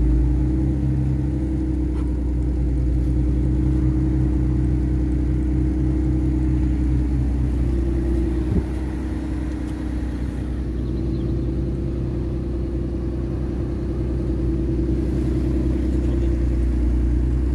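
Turbo-converted Mitsubishi FTO engine idling steadily from cold. A single click about halfway through, after which the idle runs a little quieter.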